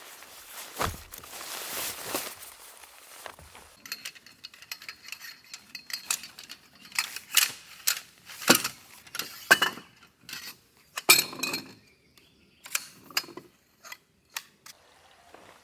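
A rustle, then a string of irregular clinks and clatters of hard objects being handled, some with a brief metallic ring.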